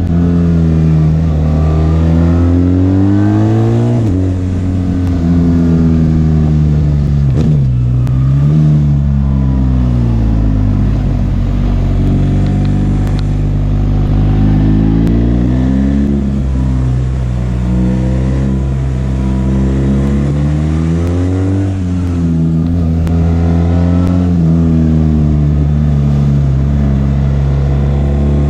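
BMW R 1300 GS boxer-twin engine under way, revs climbing and then dropping sharply several times as the gears change, with wind rush.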